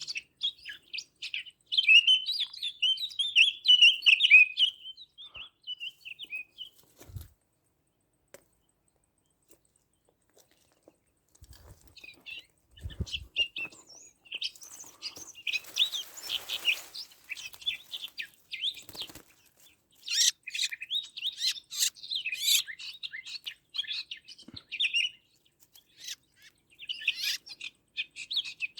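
Small songbirds chirping and twittering in quick high bursts, falling silent for a few seconds in the first half, then chirping again, with a brief rustle about midway.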